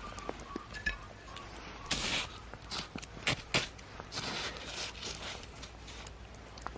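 Footsteps crunching in snow, in a few short irregular steps, with some light knocks.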